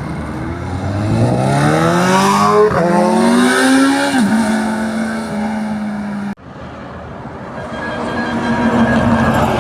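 A high-performance engine accelerating hard: the exhaust note climbs in pitch, drops with a quick upshift about three seconds in, climbs again, then holds a steady note as it goes by. After an abrupt cut, another engine approaches, growing louder.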